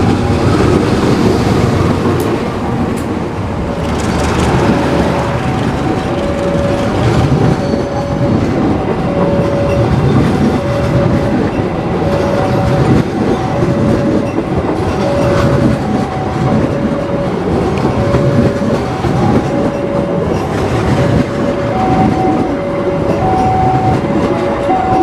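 A train running close by with a loud, continuous rumble and wheel noise from the rails. Over it, an electronic warning signal sounds two alternating tones in short, regular beeps, about one pair a second.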